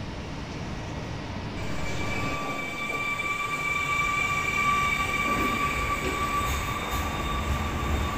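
ER160 Stadler FLIRT electric multiple unit running through an underground platform, a steady rumble of wheels on rail growing louder about two seconds in. A steady high-pitched squeal sounds over it from about a second and a half in until near the end.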